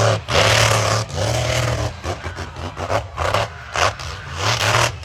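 Monster truck engine revving hard in repeated bursts. The throttle is snapped open and shut again and again: about half a dozen loud surges, with the longest ones in the first two seconds and shorter blips after.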